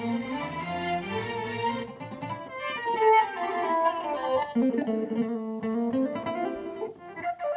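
Korg Pa600 arranger keyboard playing a melody on a plucked-string voice from an Armenian sound set, the notes stepping and gliding up and down.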